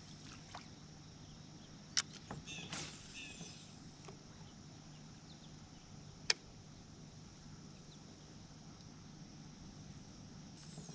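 Two sharp clicks about four seconds apart, with a brief swish soon after the first, from gear being handled in a kayak, over a faint steady low hum.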